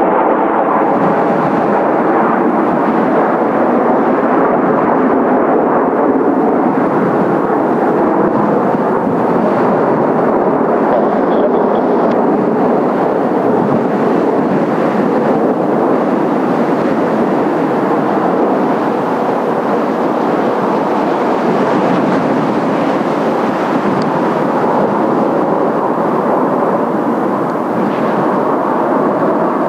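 Jet noise from Blue Impulse Kawasaki T-4 jet trainers' turbofan engines: a loud, steady rush that holds throughout.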